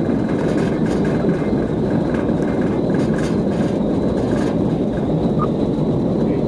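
Steady engine and road noise inside a moving police patrol car.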